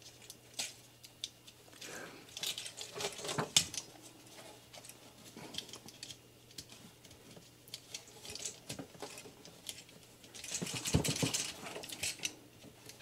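A hard plastic Transformers action figure being handled: scattered small clicks with short stretches of scraping and rubbing, busiest about three seconds in and again about eleven seconds in, as parts of the Optimus Prime figure's chest are worked to release its Matrix piece.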